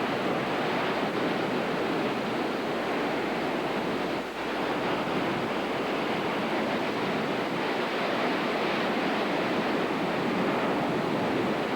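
Hurricane wind and heavy surf as a steady rush of noise, with the wind buffeting the microphone. The level dips briefly about four seconds in.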